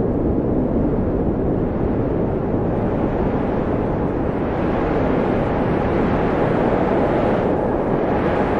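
Steady wind blowing with a deep, even rush that swells a little brighter around the middle, then briefly dips and rises again near the end.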